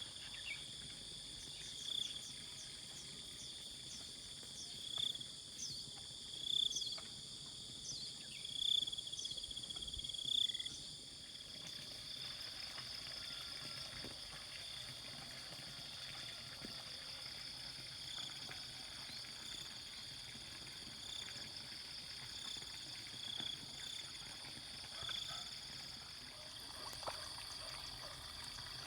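Steady high-pitched chorus of insects, with a short call repeating every second or two over it, loudest in the first ten seconds or so.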